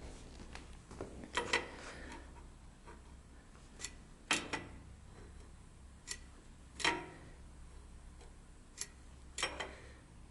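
Scattered light metallic clicks and taps, about nine over ten seconds, from a measuring gauge being set down and moved across the cylinder block deck and sleeve tops while checking sleeve protrusion. A faint low hum runs underneath.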